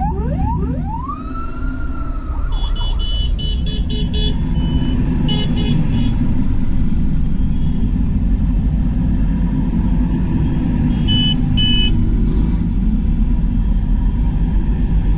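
Diesel tractors of a passing convoy rumbling steadily, with a siren wail that rises and fades in the first couple of seconds, then a string of short high-pitched horn beeps a few seconds in and two more near the end.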